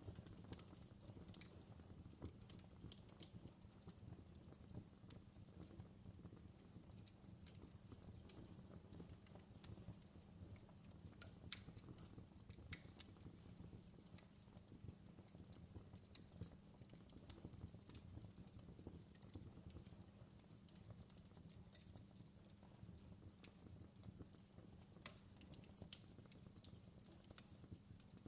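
Wood fire in a fireplace crackling faintly: scattered sharp pops and snaps over a low steady rumble of the flames.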